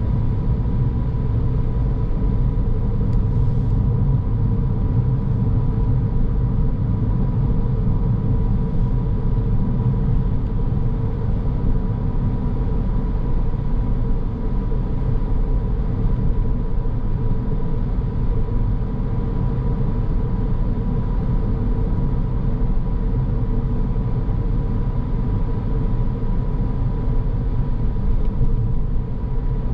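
Car driving at a steady pace: constant low road and tyre rumble with engine noise, and a faint steady whine above it.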